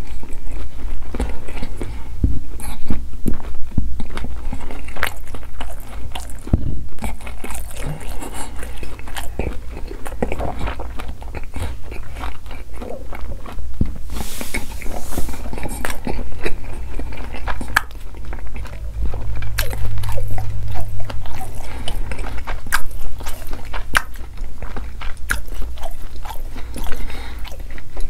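Close-miked chewing with the mouth closed: a dense, irregular run of sharp wet mouth clicks.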